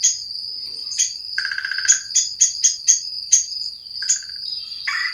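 Birds calling: sharp, high notes and short, buzzy rolling calls, over a steady, high-pitched drone of insects.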